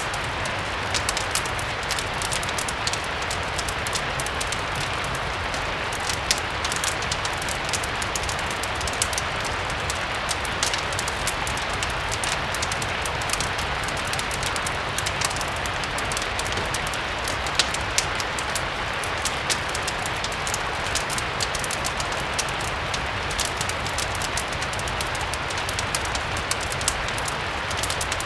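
Steady rain mixed with a crackling wood fire: an even hiss of rain, with many small sharp pops and a low rumble underneath.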